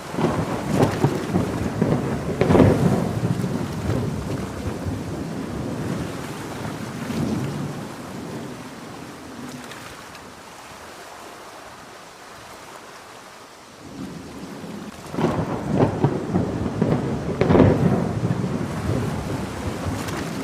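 Two peals of thunder over steady rain. Each begins with sharp crackling claps and rumbles on for several seconds. The first dies away around the middle, and the second breaks in about three-quarters of the way through.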